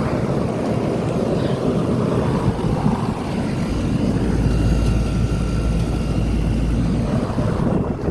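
2005 3-ton Trane XB10 central air conditioner condenser running: its fan and Climatuff reciprocating compressor make a steady loud whir and hum. The noise starts to drop right at the end as the unit begins to shut off.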